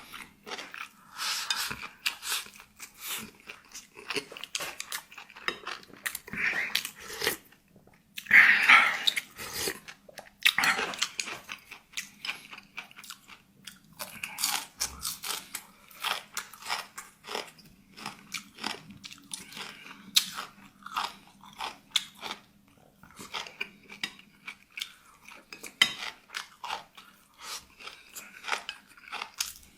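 Close-up chewing with many irregular crunching bites of crisp food, the loudest of them about a second and a half in and near nine seconds, over a faint steady low hum.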